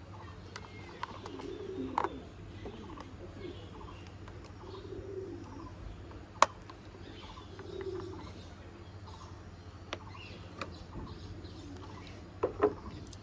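Pigeons cooing, a low soft coo every few seconds, with a few sharp clicks as screws are tightened into the plastic toy bus.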